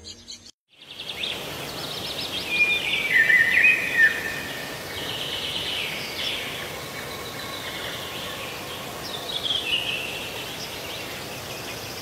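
Songbirds chirping and calling over steady outdoor background noise. The calls are short chirps and falling whistles, busiest about three to four seconds in and again near the end.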